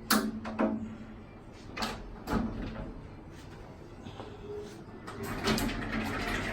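Sliding glass panels of a balcony enclosure knocking against their frame a few times, then rolling along their track on rollers about five seconds in.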